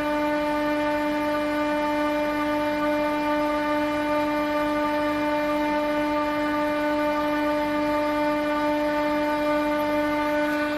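McQuay chiller unit running steadily: an even, unchanging hum with a strong low tone and a stack of higher overtones.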